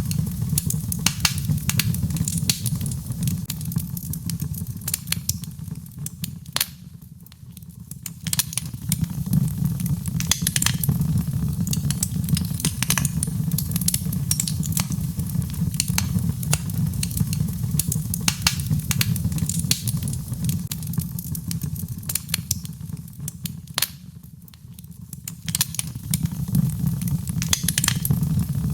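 Birchwood fire burning in a fireplace: a steady low rumble of the flames with frequent sharp crackles and pops from the burning birch logs. The low rumble fades briefly twice, about a quarter of the way in and again near the end, while the crackling carries on.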